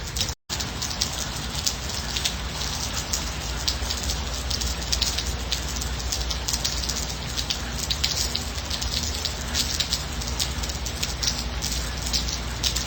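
Steady rain with many individual drops pattering sharply over an even hiss. The sound cuts out completely for a split second about half a second in, then resumes unchanged.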